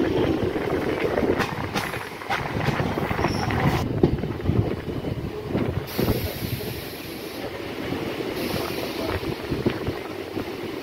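Electric multiple-unit local train running on the track, heard from an open doorway: a steady rumble of wheels with scattered clicks over rail joints, one loud knock about four seconds in, and wind on the microphone. During the first few seconds another EMU on the next track runs close alongside.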